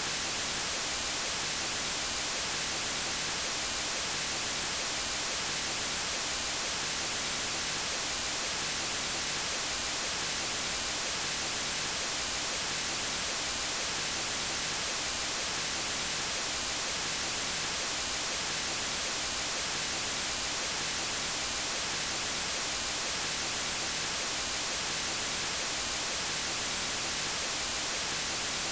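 Steady electronically generated white noise: an even, unchanging hiss across the whole range, strongest in the highs.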